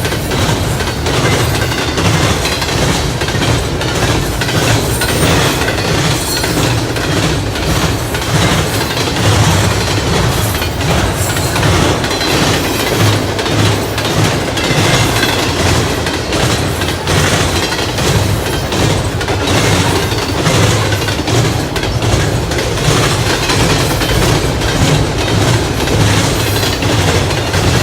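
Freight train cars rolling past at close range, with a steady rumble and the repeated clack of wheels over rail joints.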